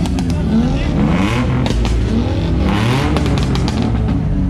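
Car engine revving hard again and again, its pitch sweeping up and dropping back several times.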